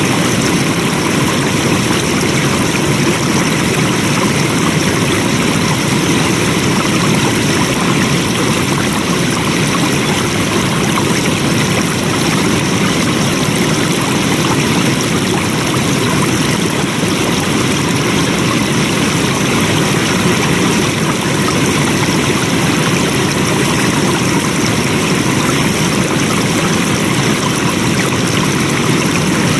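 Flowing water, a stream running steadily with an even, unbroken rushing.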